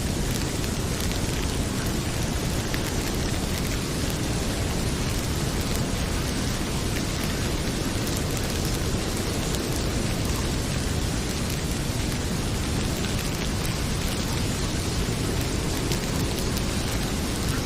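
Heavy rain pouring steadily, a dense even hiss, with faint scattered crackles from a wood fire.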